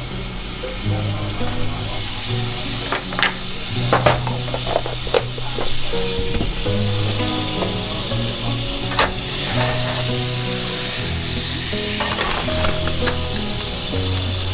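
Food sizzling in a frying pan, with a few sharp clicks and taps of a utensil against the pan, most in the first half and one more past the middle.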